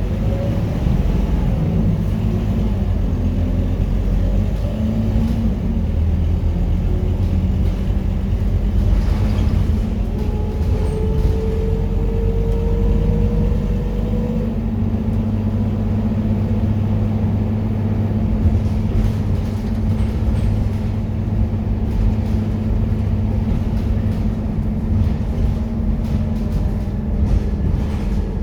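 Scania K230UB bus's diesel engine running steadily, with a faint whine that rises slightly in pitch for a few seconds about a third of the way in.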